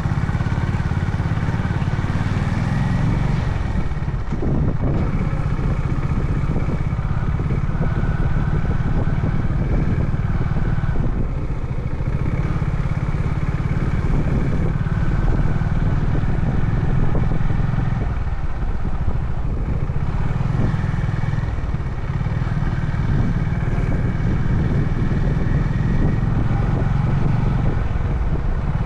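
Honda CB350 H'ness air-cooled single-cylinder engine running under way, with road noise; the engine note shifts a few times as the throttle changes.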